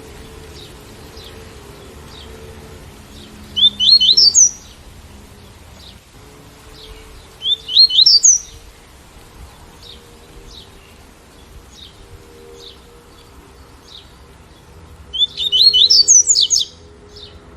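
Double-collared seedeater (coleiro) singing its 'tui-tui' song: three loud bursts of quick rising notes, about four seconds in, about eight seconds in and near the end, the last burst the longest, with soft short chips in between.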